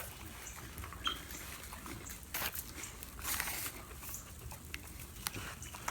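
Dogs and a guinea hen eating scattered Cheerios off the ground: irregular short crunches and pecks, with a brief faint chirp about a second in.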